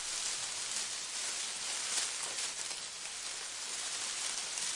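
Leaves rustling: a steady, dense hiss.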